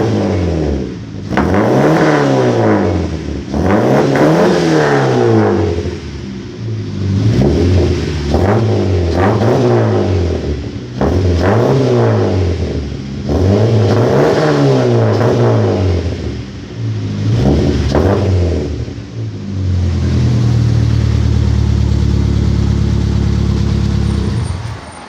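Straight-piped Dodge Neon four-cylinder with a dual-outlet sport exhaust, revved in a string of about ten quick throttle blips, each rising and falling in pitch. Near the end it is held at a steady raised rpm for a few seconds, then drops back.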